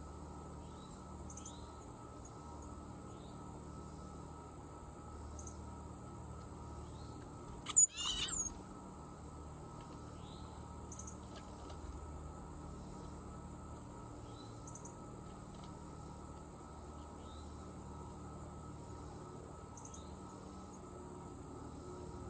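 Steady high-pitched insect drone with faint short bird chirps repeating every second or two, and one loud, short bird call about eight seconds in.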